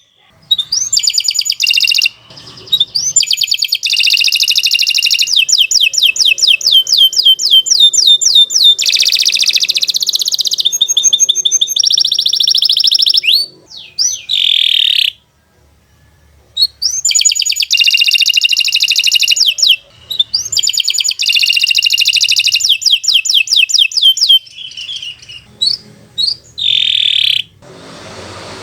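Domestic canary singing a long song of rapid trills and rolling phrases, broken by a pause of about two seconds midway.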